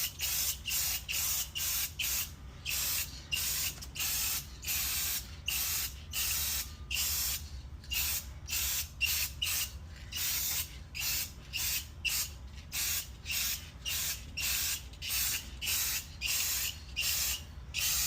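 Aerosol spray-paint can hissing in short bursts, about two a second, as the nozzle is pressed and released in quick passes.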